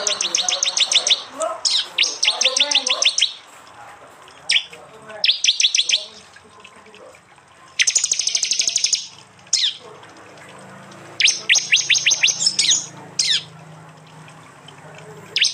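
Prinia (prenjak) calling in rapid bursts of sharp, high chips, the fast rattling 'tembakan' call. There are about eight bursts, each up to a second or so long, with short pauses between them.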